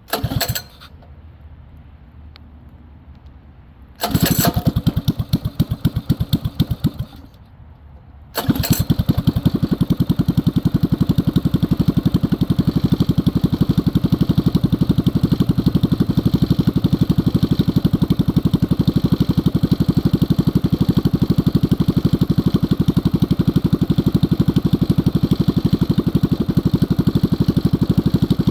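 Axis M200 minibike's 196cc single-cylinder engine with a stage 1 kit being started. A short burst comes right at the start, then it runs for about three seconds and dies, and a second or so later it fires again and keeps running steadily.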